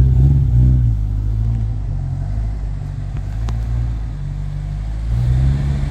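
Car engine running at low revs close by, a steady low rumble that shifts in pitch in the first second and picks up a little near the end.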